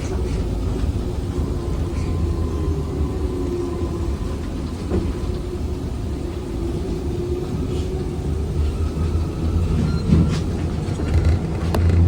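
Inside a ZiU-682G trolleybus on the move: low rumble of the running gear with a steady electric motor whine that slowly drifts in pitch, and a few sharp knocks from the body.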